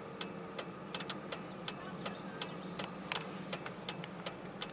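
Hazard-flasher relay clicking steadily inside a pickup cab, about three clicks a second, over a low steady hum.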